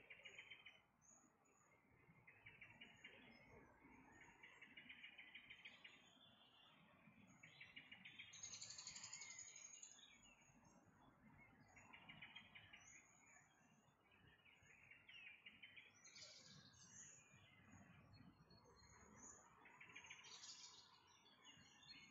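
Faint bird chirping: short, rapid trilled phrases repeated every second or two, the longest about two seconds in the middle.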